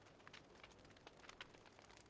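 Faint wood fire crackling, with small irregular pops and snaps.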